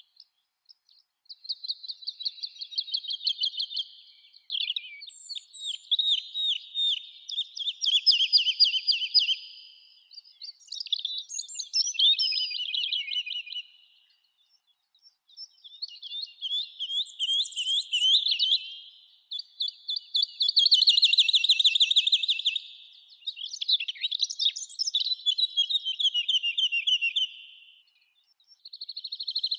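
Songbirds singing: a run of song phrases made of rapid trilled notes, each phrase lasting a few seconds, with short pauses between them.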